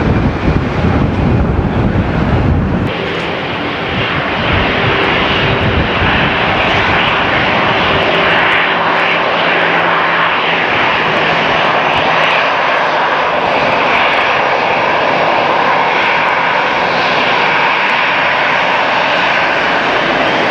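Airliner on landing approach flying over, its engines running with a steady, sustained noise and faint drifting tones. A heavy low rumble fills the first three seconds.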